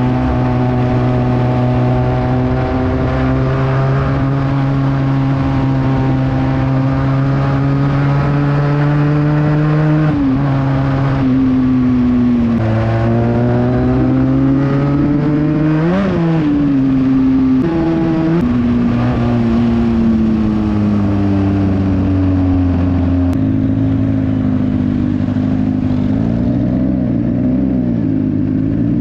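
Benelli 300 parallel-twin motorcycle engine with a loud exhaust, under way. Engine pitch holds steady for about ten seconds, then rises and drops with gear changes, with a quick rev up and back down about halfway through.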